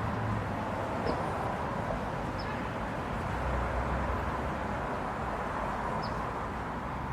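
Steady outdoor background noise with a low rumble, broken by about four faint, short high chirps.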